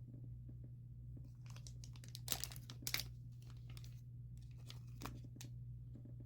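Small parts being handled by hand: a scatter of short crinkles and clicks, two of them louder about two and three seconds in, over a steady low electrical hum.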